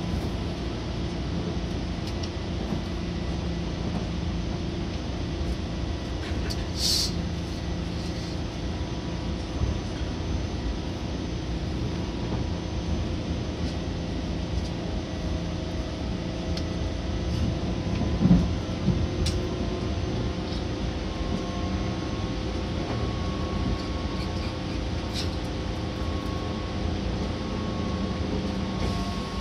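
Running noise inside a Seibu Red Arrow limited express train: a steady rumble of wheels on rail, with faint steady tones from the running gear. There is a brief hiss about seven seconds in and a single louder thump about eighteen seconds in.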